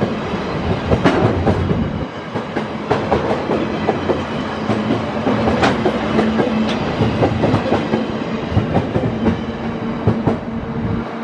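Empty container flat wagons of a freight train rolling past close by, their wheels clacking over the rail joints in a rapid, uneven clatter over a steady hum. The last wagon goes by in the second half, and the clatter carries on as the train moves off.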